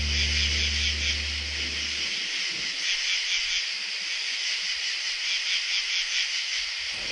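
A held low note from the song's ending dies away about two seconds in. What is left is a steady high-pitched hiss with a faint flickering texture, an ambient outro.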